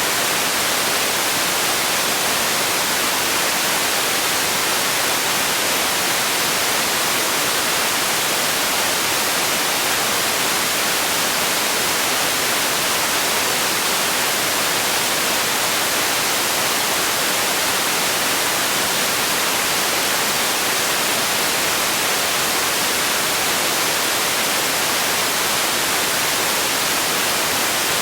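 Steady, unchanging hiss of synthetic sleep noise, bright and thin in the bass, with no change anywhere.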